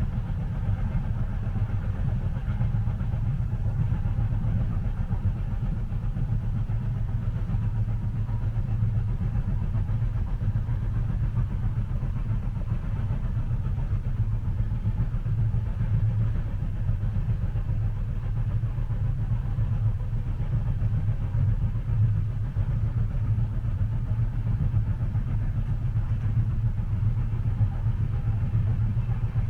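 Steady low rumble of a train carriage interior in motion, with a faint hiss above it and no distinct clicks from the track.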